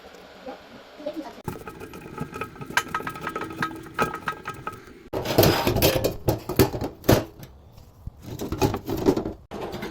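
Hand tools and metal faucet fittings clicking, clinking and knocking during a faucet replacement, in short spells that cut off abruptly between clips.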